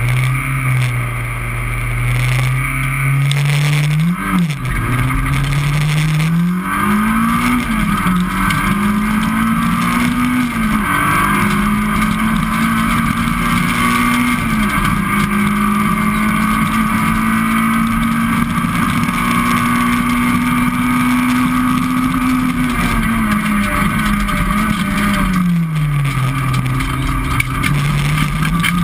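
Citroën Saxo VTS rally car's four-cylinder engine heard from inside the cabin. It holds steady revs at first, then revs up about four seconds in and climbs through several quick gear changes. It runs at high revs for a long stretch, drops back a few seconds before the end, then picks up again.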